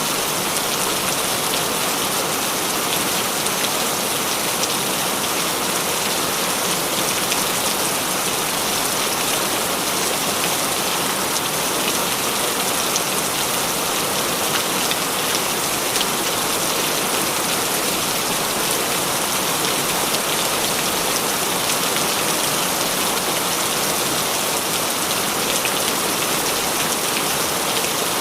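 Heavy rain falling steadily on a surface, an even unbroken hiss of drops with no thunder.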